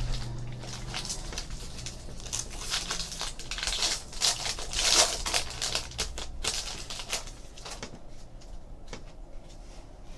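Trading card pack wrappers crinkling and cards being handled, a dense run of quick crackles that is loudest about halfway through and thins out near the end.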